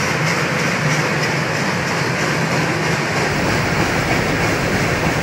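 Freight train of loaded gondola cars rolling past: a steady rumble with the wheels clicking evenly, about four times a second, over the rail joints, and a low drone under it.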